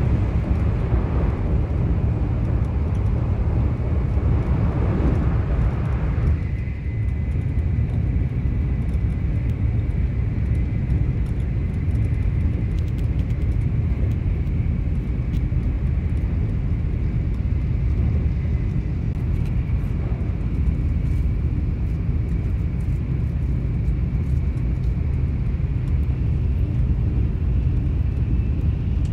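Shinkansen bullet train running at speed, heard inside the passenger car as a steady low rumble. A higher rushing hiss over the rumble stops abruptly about six seconds in.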